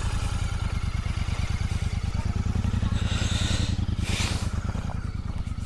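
Motorcycle engine idling with a fast, even low pulse, just after being started; a brief hiss rises over it about four seconds in.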